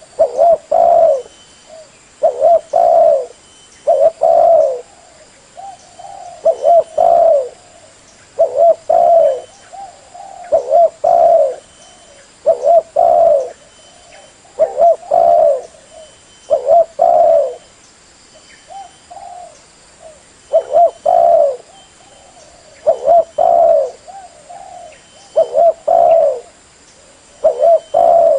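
Spotted dove cooing over and over: short coo phrases repeating about every two seconds, some loud and some fainter.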